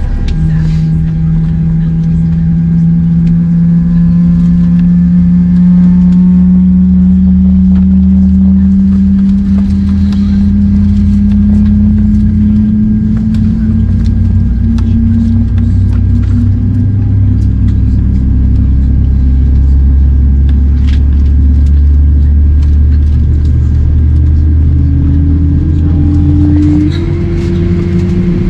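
A vehicle or engine running loud and steady over a heavy low rumble, with one engine tone slowly rising in pitch and stepping higher near the end.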